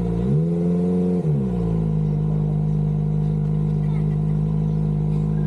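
Kawasaki ZX-25RR's 250 cc inline-four with an Arrow aftermarket exhaust being revved. The pitch dips and climbs again in the first second and a half, then holds steady at raised revs.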